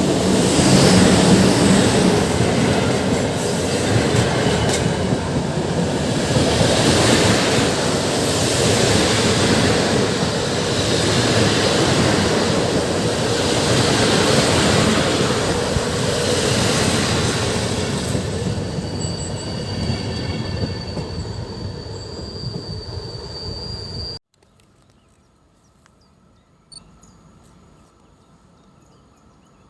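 Intercity passenger train hauled by an EP09 electric locomotive passing at speed: coaches rushing by with a rumble that swells and eases every couple of seconds, wheels clicking over the rail joints. A thin high squeal comes in near the end. The sound cuts off abruptly about 24 seconds in, leaving faint outdoor ambience.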